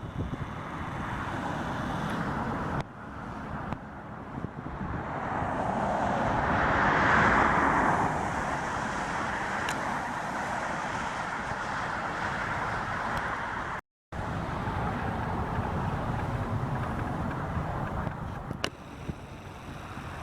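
Jet aircraft engines passing on the runway, swelling to a peak about seven seconds in and then easing to a steady rumble. The sound drops out for an instant about two-thirds of the way through.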